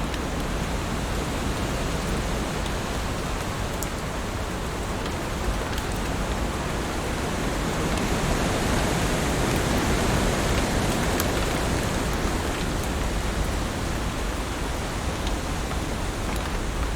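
Heavy rain falling in a steady hiss, with a few faint sharp drop ticks; it swells a little louder about halfway through.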